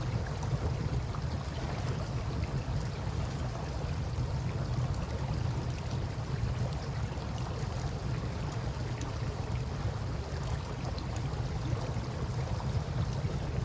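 Steady rush of flowing river water with a low rumble, and a few faint crackles from a campfire.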